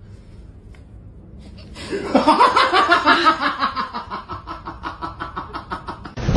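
A person laughing hard in quick rhythmic bursts, starting about two seconds in, loudest early and trailing off toward the end.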